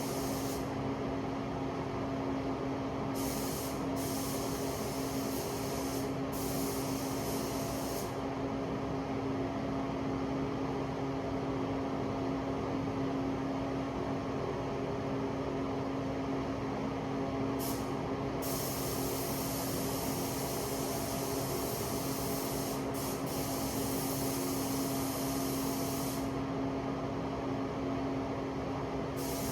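Paint spray gun hissing in several stretches of one to several seconds as the trigger is pulled and released, over a steady machine hum with a low tone underneath.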